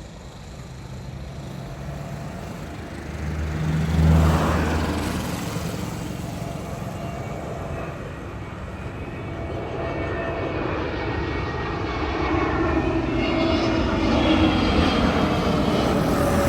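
Jet airliner on approach, its engine noise growing steadily louder, with a whine whose pitch slowly drops as it draws near. A brief louder low rumble comes about four seconds in.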